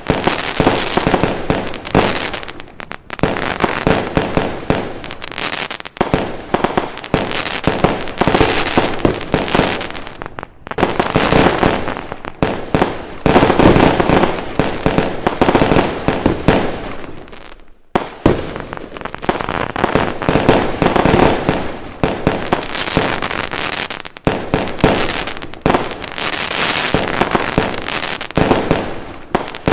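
Fireworks and firecrackers going off in dense, continuous volleys of rapid cracks and bangs, with a brief lull near the middle before they start again.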